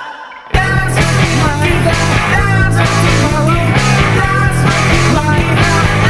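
Home-recorded rock song on guitar and bass with wailing vocals, deliberately somewhat out of tune. The music drops out for about half a second at the start, then the full band comes back in.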